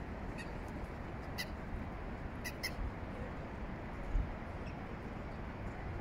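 Short, high bird chirps, about five of them including one quick double, over a steady outdoor hiss of wind and distant city noise. One brief low thump comes about two-thirds of the way through.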